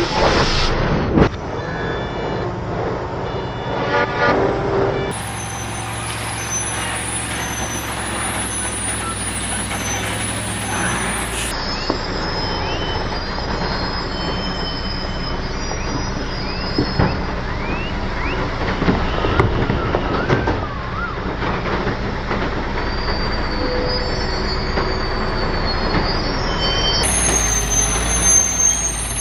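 Heavy truck engines running under load, with scattered clanks and traffic noise; the sound changes abruptly three times as one clip cuts to the next.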